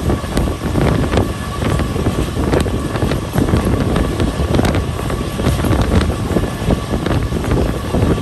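Passenger train running along the track: steady rumble and rattle of the carriage wheels with frequent clicks and knocks, and wind buffeting the microphone. A faint steady tone runs underneath.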